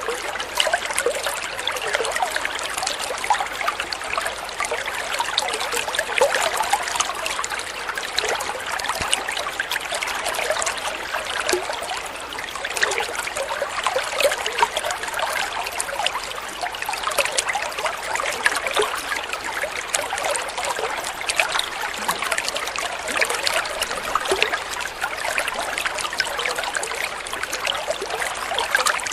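Water flowing and trickling in a steady, unbroken stream, with many small splashes and babbling flickers.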